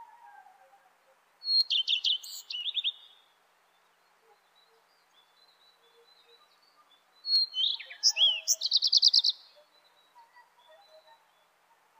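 Redstart singing: two short song phrases, each a few opening notes followed by a quick run of high repeated notes.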